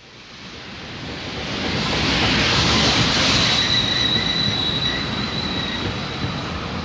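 A train rolling past, fading in from silence and at its loudest about three seconds in. A steady high-pitched wheel squeal sets in about halfway through and holds.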